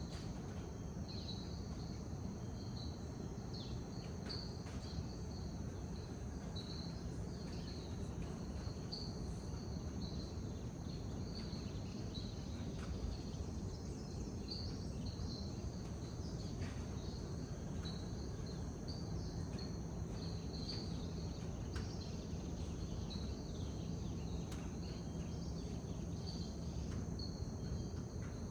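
Tropical rainforest dawn ambience: insects drone steadily at a high pitch, with short chirping calls repeating throughout, over a low steady rumble.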